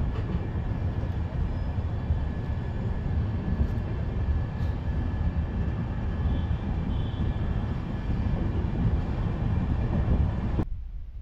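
Running noise of an express train's LHB coach moving out past a station platform: a steady low rumble that cuts off suddenly near the end.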